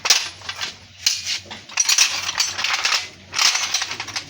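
Metal-on-metal clinking and rattling of hand tools working on the rickshaw's brake rod and fittings, in about four bursts of clatter.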